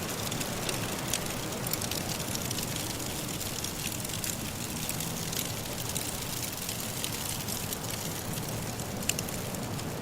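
Wood fire crackling in a fireplace, with frequent small pops and snaps over a steady soft hiss of wind-blown snow.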